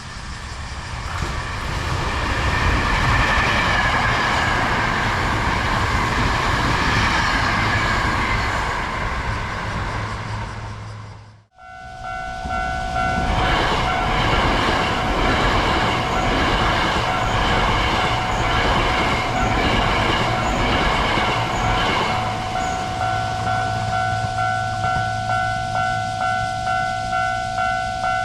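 Hankyu 1000-series electric train running past, its wheels and motors swelling to a loud rush and then fading, until a sudden cut. In the second stretch another train passes with rail-joint clicks, over a steady two-tone ringing that beats regularly and keeps going after the train has gone.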